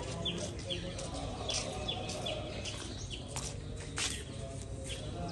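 Small birds chirping: a regular series of short, high, falling chirps, about two to three a second, with a few sharper calls among them, over a low steady background rumble.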